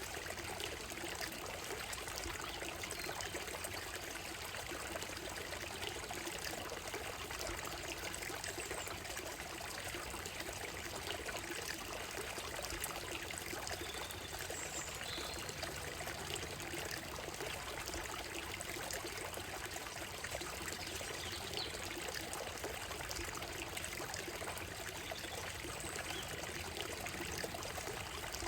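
Shallow stream running steadily over a gravel and stone bed, a continuous trickling, babbling rush of water.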